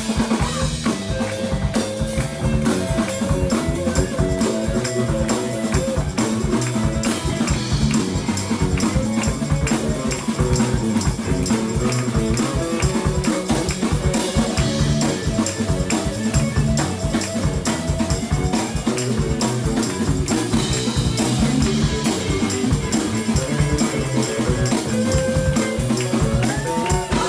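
Live rock band playing an instrumental passage without vocals: a drum kit keeps a steady beat under melodic lines.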